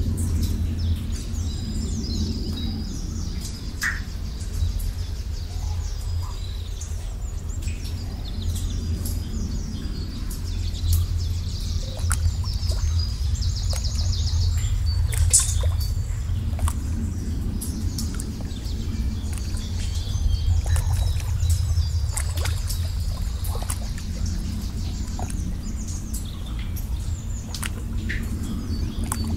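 Birds chirping and trilling on and off over a steady low rumble.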